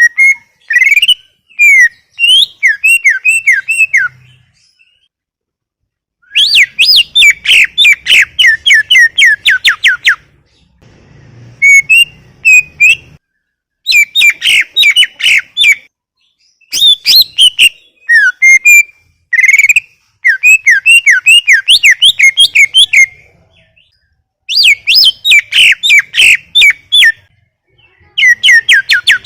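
Green leafbird (cucak ijo) singing loudly in rapid phrases of repeated, sweeping whistled chirps. Each burst lasts two to four seconds, and short pauses separate the bursts.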